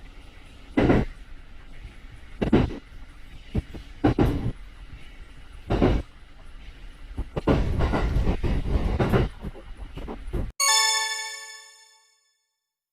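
Shinano Railway SR1-series train running on the rails: steady running noise with short loud bursts of wheel-on-rail noise every second or two, then a longer louder stretch. Near the end it cuts off suddenly to a bell-like chime that rings and fades over about a second and a half.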